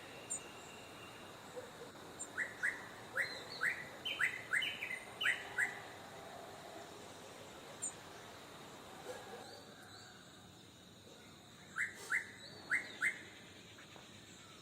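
Songbird chirping: a quick run of short, rising chirps a couple of seconds in, then a pause and a second burst of four chirps near the end.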